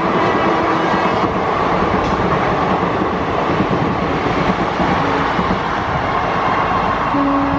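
Passenger express train passing at speed close by: a loud, steady rush and clatter of the coaches' wheels on the rails.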